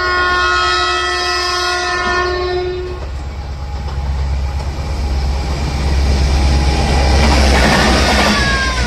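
Renfe train sounding a multi-note horn chord for about three seconds, then the rumble of the passing train building up and peaking near the end, with a brief falling tone just before the end.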